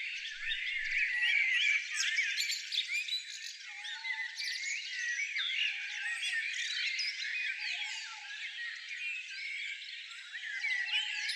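Many small songbirds chirping and singing at once, a dense tangle of quick high whistles and trills, with a few short lower calls now and then.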